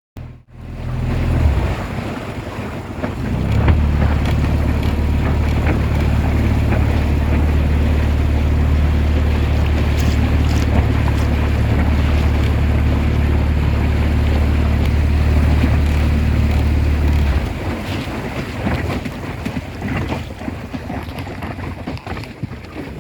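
Boat outboard motor running steadily under way with a low, even hum, with wind and water noise over it. About seventeen seconds in, the engine sound drops away, leaving the rush of wind and water.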